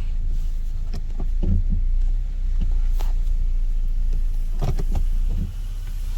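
Car driving slowly through deep snow: a steady low rumble with a few knocks and thumps as it bumps over the snow.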